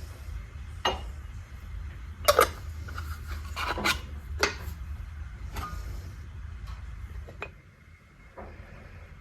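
Hard objects being handled: a series of clinks, knocks and scrapes, the sharpest a few seconds in, over a low rumble that fades out near the end.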